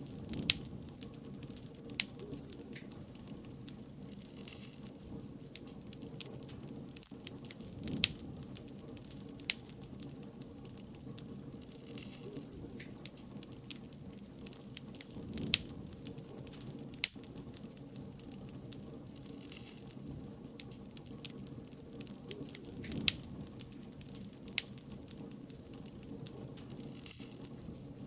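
Bonfire crackling: a steady low hiss and rumble of burning wood, broken by sharp pops every second or two, a few of them much louder.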